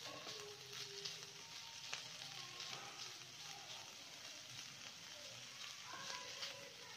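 Shredded boiled chicken sizzling faintly as it fries in a little oil and garlic paste, stirred with a slotted spatula that gives a few light scrapes and taps against the pan.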